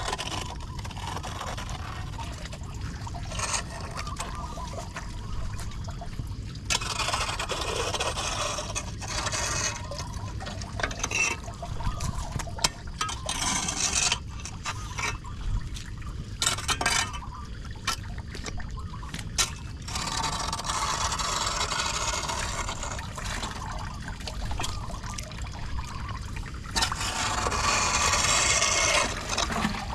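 Floodwater pouring and gurgling down a street storm drain as the clogged grate is cleared, with scraping and rubbing of debris against the grate. The rush of water swells louder several times and is loudest near the end.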